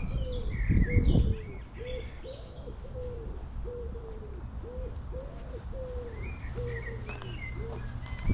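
Birds calling: a low, short call repeated about twice a second throughout, with higher chirps from smaller birds at the start and again near the end. A brief low rumble about a second in is the loudest moment.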